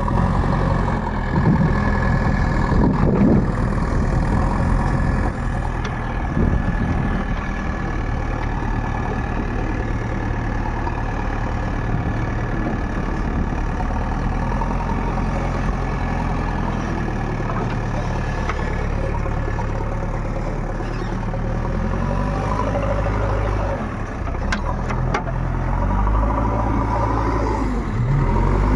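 Heavy machine's diesel engine running steadily, its pitch rising and falling a few times near the end as it is revved.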